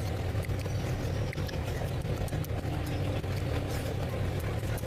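Wet chewing and mouth clicks of someone eating curry and rice, over a steady low rumble.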